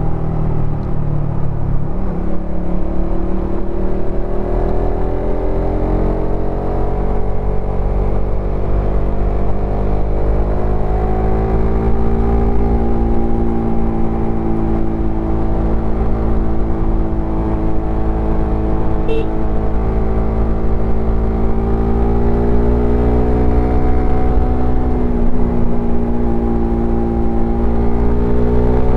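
Suzuki Satria FU FI's single-cylinder four-stroke engine and exhaust under way. The engine note eases off early, then climbs gradually as the bike gathers speed and holds steady at a cruise, with a brief easing of the throttle and another rise near the end.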